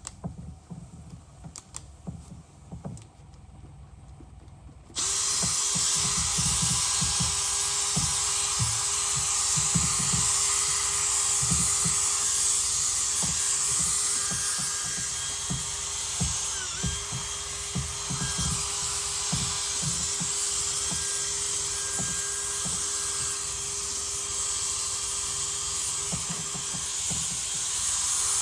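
Quiet rubbing and clicks, then about five seconds in a power drill with a buffing pad starts and runs steadily, a constant hum under a strong high hiss, dipping briefly in pitch once as it is pressed on: buffing plastic polish into a headlight lens.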